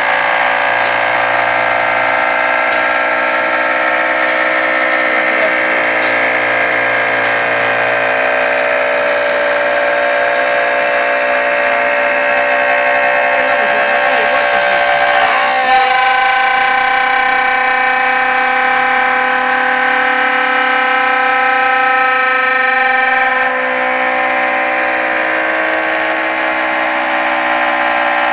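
CNC router spindle cutting beech wood: a loud, steady whine made of several held tones, whose pitch pattern shifts about halfway through.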